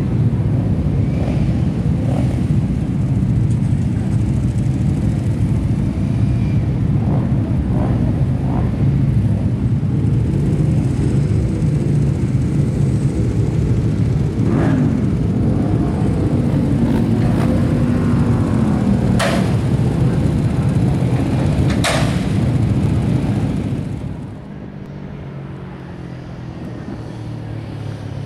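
Several Kawasaki Ninja 300 parallel-twin race bikes running, with engine pitch rising and falling in the middle. Two sharp clicks come near the end, and the sound drops suddenly shortly after.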